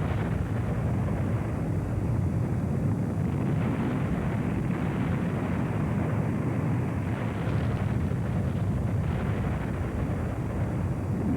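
A steady, low rumbling noise with no distinct events.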